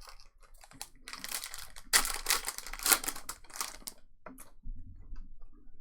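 Foil trading-card pack wrapper crinkling and tearing as it is opened and crumpled, loudest in the middle, followed by a sharp click and soft handling noise.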